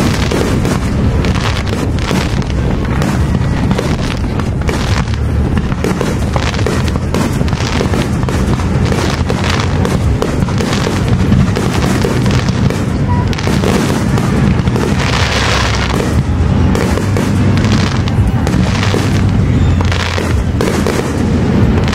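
Aerial fireworks shells bursting one after another in a rapid, continuous string of bangs and crackles, with one longer burst about fifteen seconds in.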